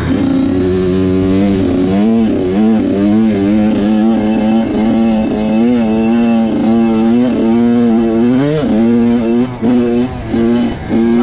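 Dirt bike engine revving up and down over and over, with a few short breaks in the sound near the end.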